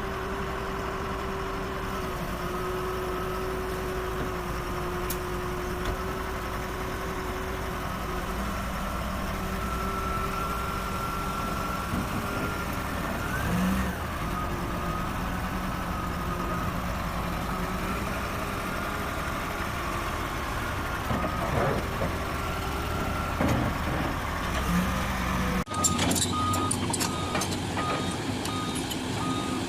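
A heavy truck's engine running steadily, with a few held whining tones over it. About 26 seconds in the sound changes abruptly to a vehicle's reversing alarm beeping in a regular on-off rhythm over engine noise.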